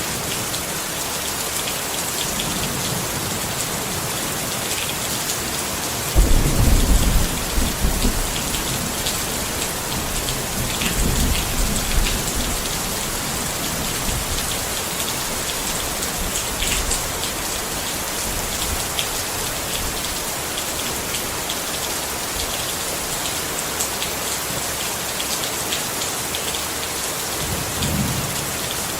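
Steady rain falling on a tent. A roll of thunder breaks in suddenly about six seconds in and rumbles on for several seconds, with a fainter rumble near the end.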